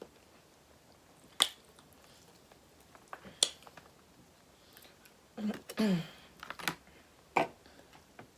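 Close-up eating sounds of a person eating seafood: a handful of separate sharp bites and mouth smacks, with a short hummed 'mm' about halfway through.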